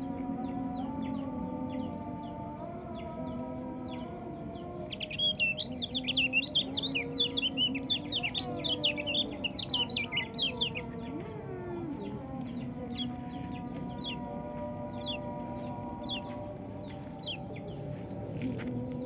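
Caged white-eye (pleci) singing: scattered quick high chirps, then a loud burst of rapid twittering song from about five to eleven seconds in. Steady low droning tones run underneath.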